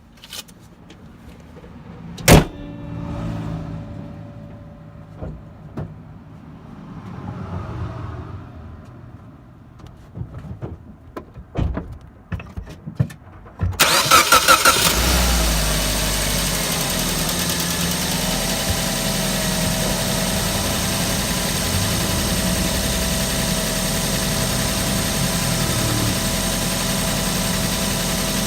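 Suzuki Swift's 1.3-litre engine, heard from inside the engine bay: a hard thud of the bonnet shutting about two seconds in, a few scattered clicks and knocks, then about halfway through the engine cranks, starts and settles into a steady idle.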